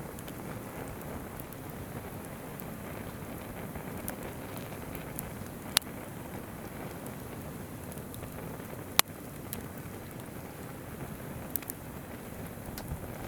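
Campfire wood crackling with scattered sharp pops, two loud ones about six and nine seconds in, over the steady rush of a babbling river.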